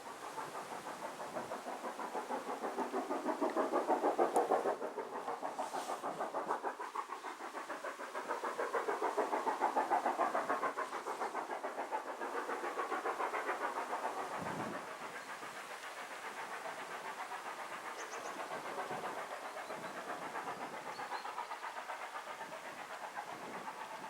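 A train running past, with a fast, regular pulsing that swells twice and then settles lower for the rest of the time.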